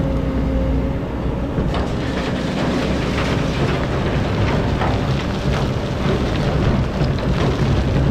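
Excavator's diesel engine running steadily under load while it digs sand, with gritty scraping and rattling of sand and stones starting about two seconds in and going on throughout.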